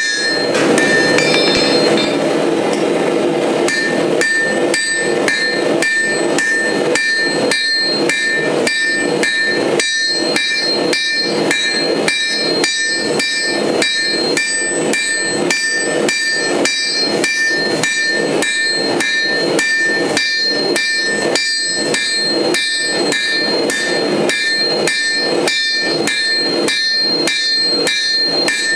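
Hammer blows forging steel on an anvil, an even rhythm of about two to three strikes a second, with a steady metallic ring carrying between blows.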